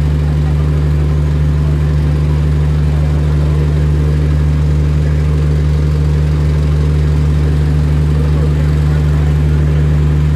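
Steady low drone of a vehicle engine running at an even pace, with no change in pitch or level.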